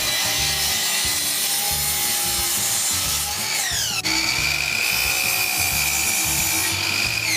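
Electric power saw cutting a wooden board, its motor whining steadily; the motor winds down in pitch a little before 4 s, then runs again and winds down once more near the end.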